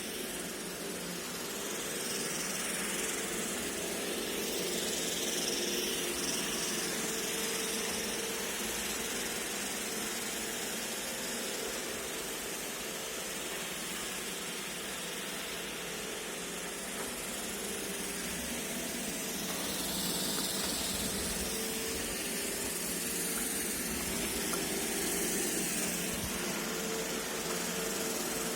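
iRobot Roomba e5 robot vacuum running, a steady whirring hum with a hiss of suction and brushes, growing slightly louder and softer as it moves about.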